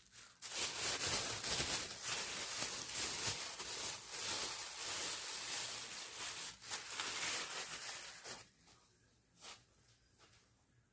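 Rustling and handling noise, with light knocks and scrapes, as small boxed items are handled and put away. It stops about eight seconds in.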